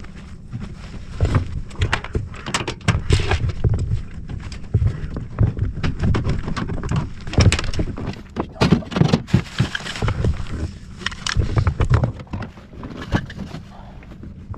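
Irregular knocks, clicks and rattles of gear being handled aboard a small boat, over a low rumble of wind on the microphone.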